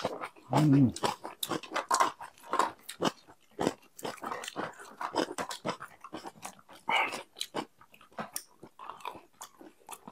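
Close-miked chewing and wet mouth sounds of people eating spicy instant noodles: a steady run of short clicks and smacks, with a brief low voiced sound, the loudest moment, about half a second in.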